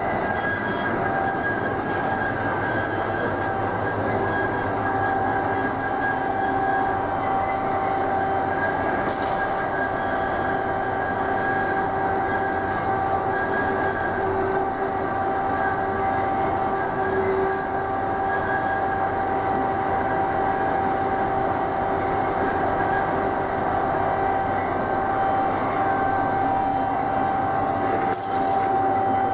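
DoALL C916SA horizontal band saw running steadily, a continuous metallic whine with several fixed tones over a hiss.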